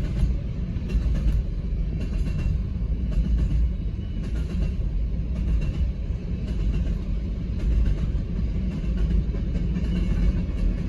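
Empty coal hopper cars of a BNSF freight train rolling past at speed, a steady low rumble.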